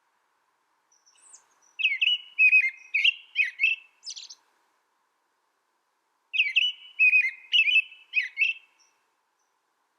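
A small songbird singing two short bursts of quick, repeated chirping notes, the first about two seconds in and the second past the middle, with a pause between them.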